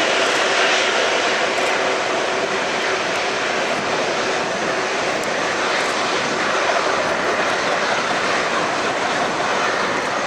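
Airliner engines running close by, a loud, steady rush of engine noise that holds even throughout.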